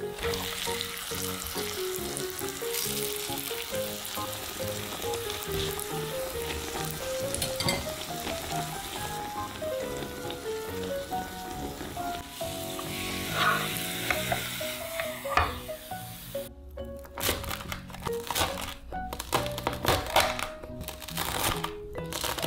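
A grated potato cake shallow-frying in oil in a square pan, sizzling steadily over soft background music. About 16 seconds in the sizzling stops and a knife cuts down through the crisp fried potato cake several times in quick strikes.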